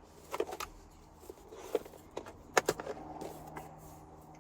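A few scattered light clicks and knocks, the sharpest about two and a half seconds in, over a faint steady hum.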